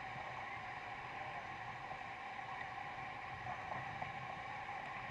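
Low, steady rushing of river water through rapids.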